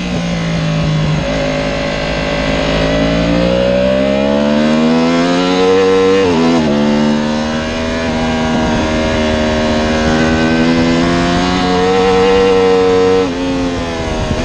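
Yamaha R1's crossplane inline-four engine under full throttle out of a corner. Its pitch climbs steadily, dips sharply about six seconds in at an upshift and pulls on. Near the end the rider shuts the throttle for braking and the pitch drops.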